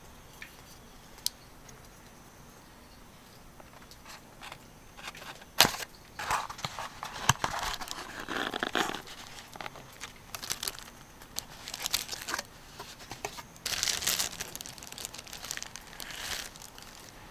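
Crinkling and rustling of something being handled, with irregular sharp clicks, starting about five seconds in and dying away near the end.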